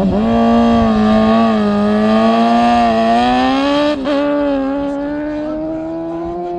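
Racing motorcycle at full throttle, accelerating hard down a land-speed course. Its engine note holds high, dips briefly at a gear change about four seconds in, then climbs again as the loudness eases.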